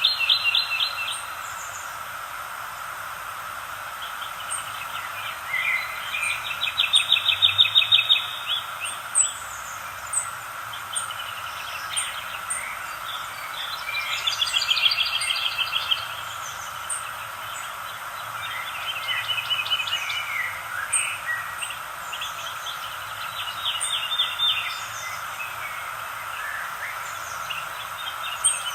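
Several birds singing and chirping, with a fast trilled phrase repeating every several seconds and scattered short high chirps in between, over a steady background drone.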